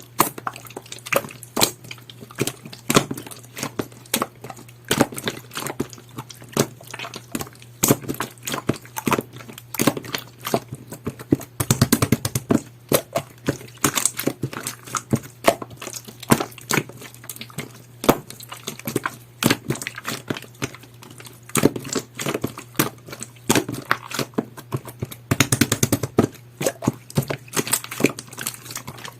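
Jelly-textured slime being squished and poked by hand, making irregular sticky clicks and pops several times a second, with quicker runs of pops about twelve seconds in and again around twenty-five seconds in. A faint low hum runs underneath.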